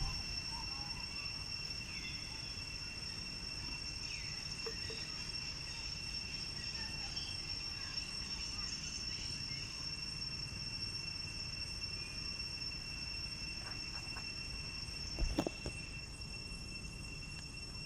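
Steady high insect drone, like crickets, holding two even high pitches over a low rumble, with a few faint short chirps. A single brief thump comes about fifteen seconds in.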